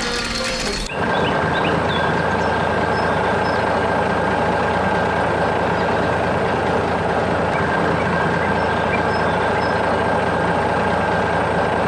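Heavy truck or construction machine engine running steadily, after a short, sharp sound in the first second.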